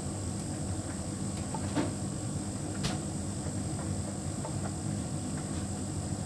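Hotpoint heat pump tumble dryer running with a big load: a steady hum with a constant high whine, and a few light clicks, the sharpest about three seconds in.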